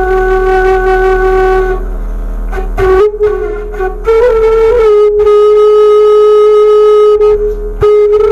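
Bamboo suling flute playing a slow melody of long held notes: a long low note, a short run of quick notes about three seconds in, then another long held note with a slight waver in pitch where it starts.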